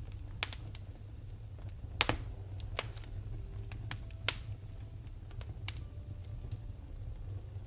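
Wood fire in a fireplace crackling, with irregular sharp pops, the loudest about two seconds in, over a steady low rumble of the flames.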